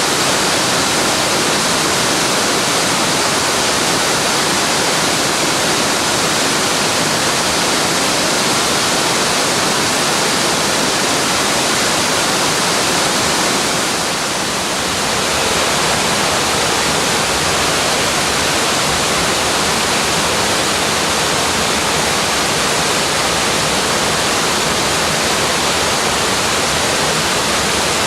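Waterfall: a steady, dense rush of falling water, easing slightly for a moment about halfway through.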